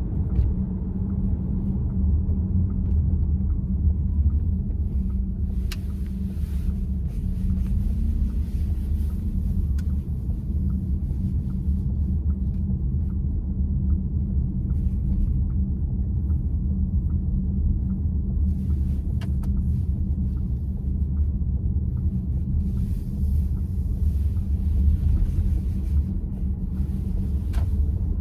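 Steady road and tyre rumble inside a VW ID.4's cabin, with a single sharp clack from the steering wheel about five seconds in as it is turned slowly to the right, the intermittent steering noise the owner is documenting. Faint, evenly paced ticking and a couple of smaller clicks run under the rumble.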